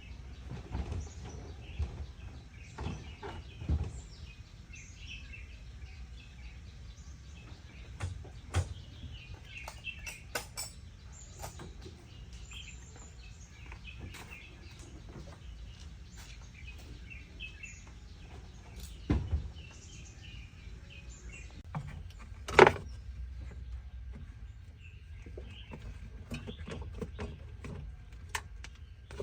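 Birds chirping in the background, with intermittent sharp knocks and clinks. The loudest knock comes about two-thirds of the way through.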